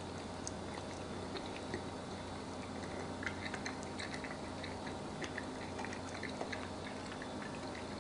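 A person chewing a bite of air-fried chicken wing, with small moist clicks and smacks that come thicker about three seconds in, over a steady low hum.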